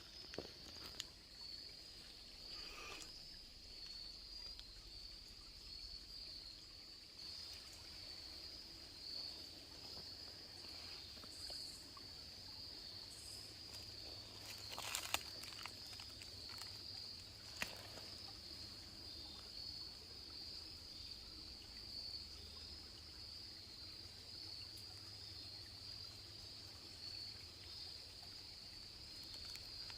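Steady high-pitched chorus of insects, faintly pulsing, over quiet woodland background noise. A couple of sharp clicks stand out about halfway through.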